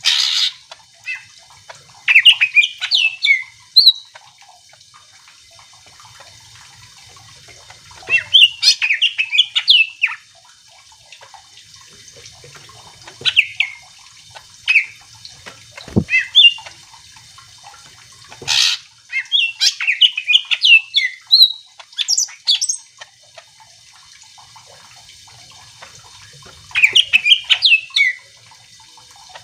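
Cucak ijo (green leafbird) singing in bursts of rapid, jumbled high chirping phrases every few seconds, with short pauses between them and a few harsher single calls.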